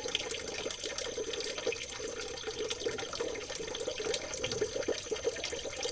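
Water trickling and babbling steadily over stones in a small stream, an even burble with no pauses.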